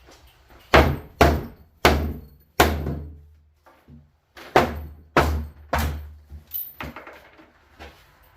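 Side panel of a wooden shipping crate being knocked loose: a run of loud, sharp blows, each with a low boom and a brief ring. Four come in quick succession, then after a short pause three more, followed by a few lighter knocks.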